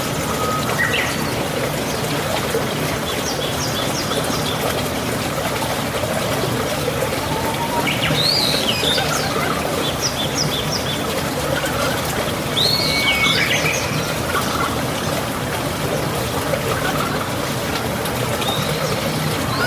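Steady rush of running water with small birds chirping over it, short bursts of calls every few seconds.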